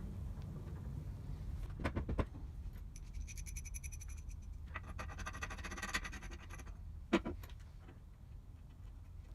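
Hand tools working on metal machine parts: a couple of knocks, then two runs of fast, even ratcheting clicks, then a single sharp metal clank, over a low steady hum.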